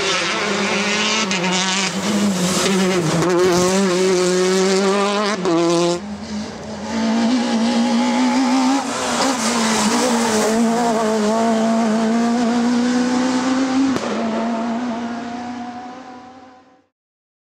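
Rally car engine revving hard under load, its pitch rising and falling through gear changes. About six seconds in the sound cuts to another passage of engine noise, steadier and slowly climbing, which fades out near the end.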